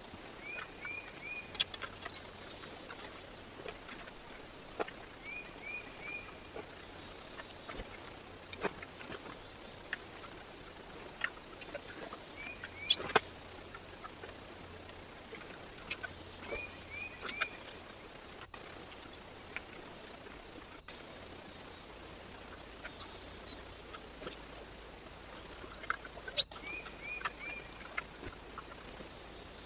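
A small bird calling in short runs of three or four quick chirps, five times, with scattered sharp taps and clicks over the trail camera's steady hiss.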